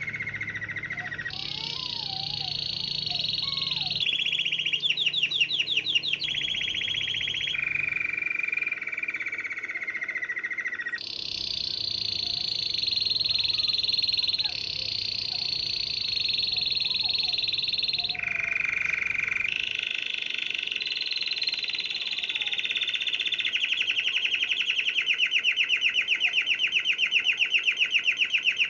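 Domestic canary singing a long unbroken song of fast trills. The song switches every few seconds between lower and higher rolling phrases, with a very fast rattle about five seconds in and another building near the end.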